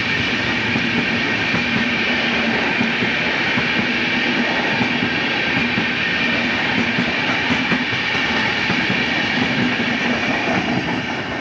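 Express passenger train's coaches rolling past close by: a steady rumble of wheels on rail with repeated clattering over the rail joints and a steady hum.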